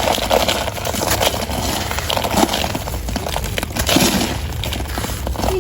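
Hands crushing and crumbling dried chunks of gritty sand-cement paste: a dense, irregular crunching and crackling.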